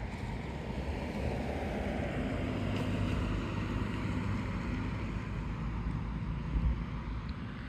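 A motor vehicle rumbling with engine and tyre noise, swelling over the first few seconds and then slowly easing off, with wind noise on the microphone.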